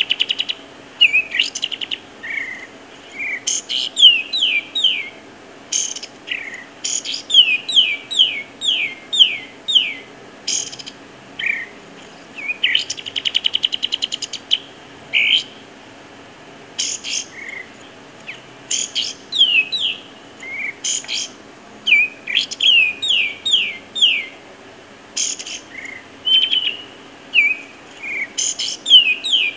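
Songbirds singing: runs of quick whistled notes that slide downward, scattered short sharp chirps, and a fast even trill about halfway through.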